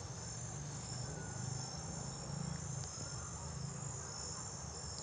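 Steady, high-pitched insect chorus of crickets or other field insects chirring without a break, with a low rumble underneath.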